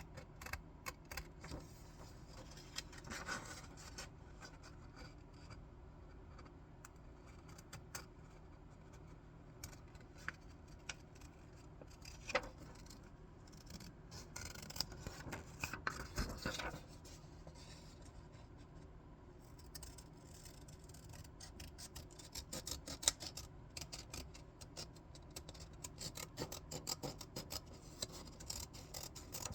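Scissors cutting paper: a run of small crisp snips with paper rustling and rubbing as the sheet is turned, busiest in the last third.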